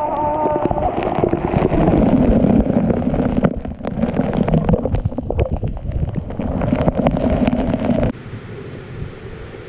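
Waterfall spray and wind buffeting the microphone: a loud, rough rush of falling water and wind noise. Near the end it cuts off suddenly to a much quieter steady hiss.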